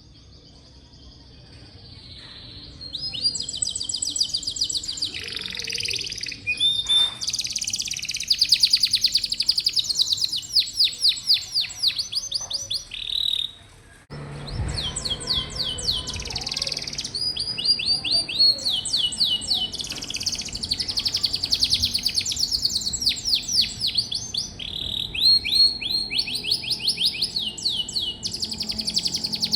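Domestic canary singing a long song of fast rolling trills and rapidly repeated chirps. The song starts a few seconds in and pauses briefly about fourteen seconds in before carrying on.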